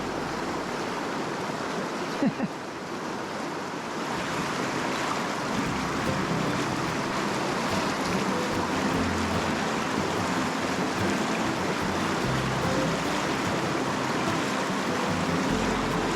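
Rushing mountain-creek water, a steady, even rush, with background music underneath. There is a short thump about two seconds in.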